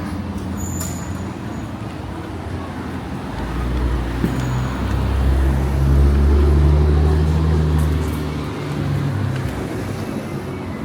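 A motor vehicle passing close on a city street: its low engine hum swells about four seconds in, peaks near the middle and fades by about nine seconds, over steady traffic noise.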